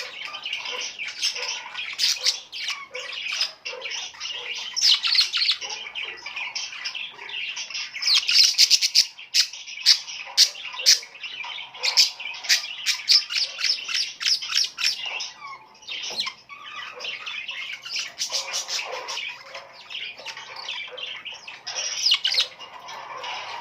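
A flock of small birds chirping and squawking in a dense, continuous chatter, with a stretch of rapid, sharp calls in the middle.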